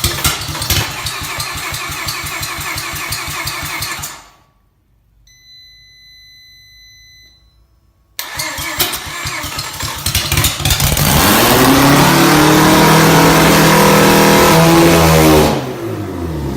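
Starter cranking a freshly rebuilt, full-bridgeported Mazda 13B turbo rotary engine with a fast, even pulse, stopping for a few seconds and then cranking again. About eleven seconds in, the engine catches and runs loud at a steady pitch for about four seconds, then falls away in pitch near the end.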